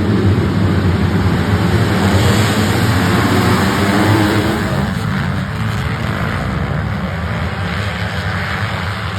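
Motocross dirt bike engines running hard on the track, loud and continuous, easing off gradually in the second half.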